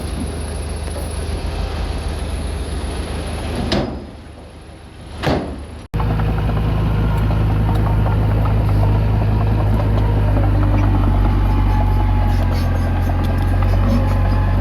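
Komatsu D20P bulldozer's diesel engine running as it works. The level dips for a couple of seconds with one short sharp sound, then after an abrupt cut about six seconds in there is a steady, louder low engine drone.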